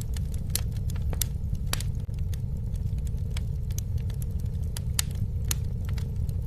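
Campfire burning: irregular sharp crackles and pops from the wood, about one or two a second, over a steady low rumble.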